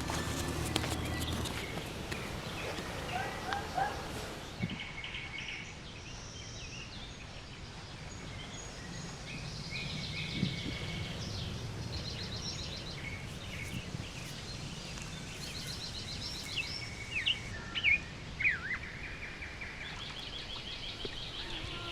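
Small birds chirping and trilling again and again, in short phrases, over a low steady background noise.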